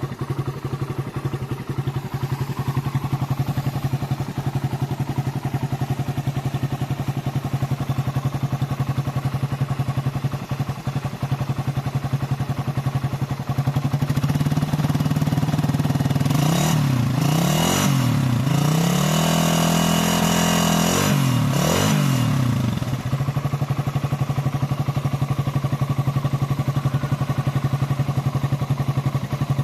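Suzuki Satria FU 150 cc four-stroke single-cylinder engine on its stock exhaust, idling steadily. About halfway through it is revved: a couple of quick blips, then a higher rev held for a few seconds, before it drops back to idle.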